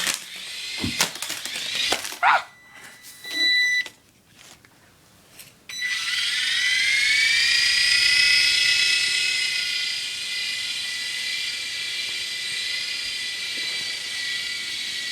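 Air Hogs toy helicopter's small electric rotor motor: after a few knocks and a short quiet gap, it spins up about six seconds in with a rising whine, then runs at a steady high whine.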